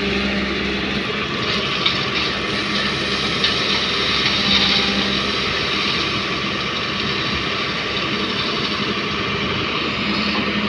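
Heavy diesel machinery running steadily while crushed stone is loaded, with a rattling clatter over the engine and two sharp knocks, about two and three and a half seconds in.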